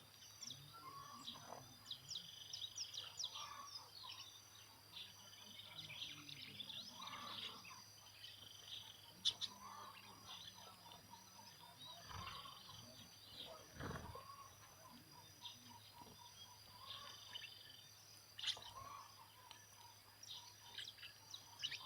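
Many small birds chirping and calling in quick, overlapping short notes, over a steady high insect trill.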